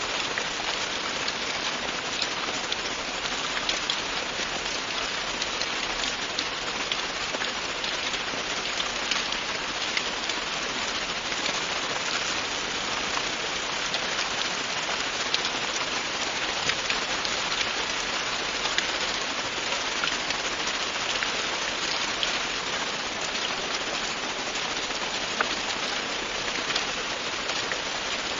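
Steady rain falling, an even hiss with scattered small drop ticks and no pauses.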